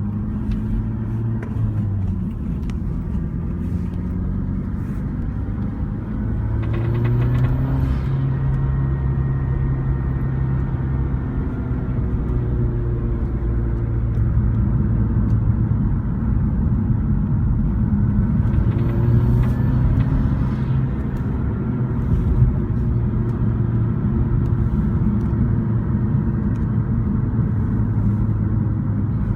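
Mazdaspeed6's turbocharged 2.3-litre four-cylinder pulling under acceleration, its pitch rising twice, with a knocking rattle during the pulls. The rattle is exhaust gas escaping from a loose exhaust manifold-to-turbo joint and striking the heat shield around the turbo under heavy load.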